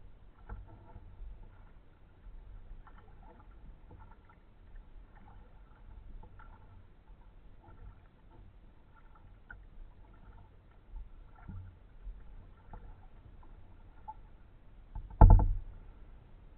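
Kayak being paddled, with scattered small knocks and water sounds from the strokes. There is one loud, short thump near the end.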